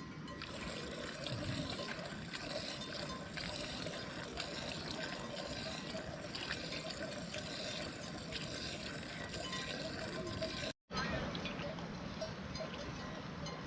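Water running or splashing, an even patter that breaks off for a moment about eleven seconds in.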